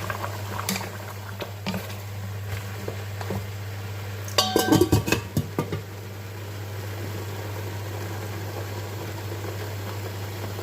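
Metal cooking pot and utensils clattering: a few light knocks, then a burst of clanking with metallic ringing about four to six seconds in, over a steady low hum.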